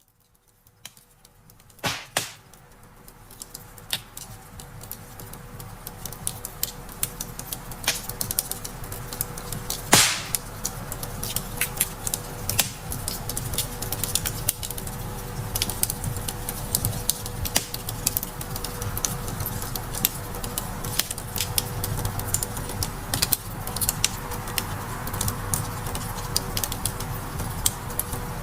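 Wood fire crackling and popping irregularly over a low rumble of flames, fading in from silence over the first several seconds, with a sharp louder pop about ten seconds in.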